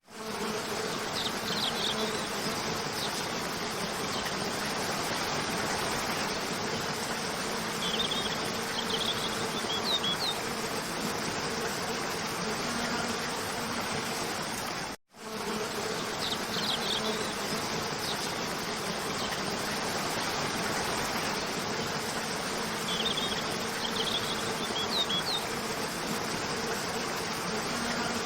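Steady rush of flowing water from a stream, with insects buzzing underneath and a few short, high bird chirps near the start and again around eight to ten seconds in. The same stretch repeats after a brief dropout halfway through.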